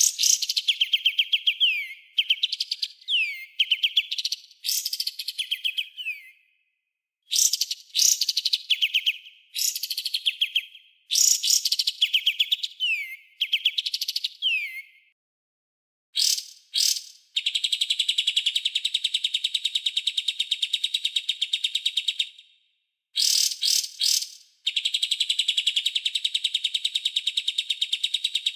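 Songbird 'tembakan' calls from a bird-training track: fast series of sharp, down-slurred whistled notes in phrases separated by short silences. Past the middle they give way to two long, even, very rapid buzzing trills.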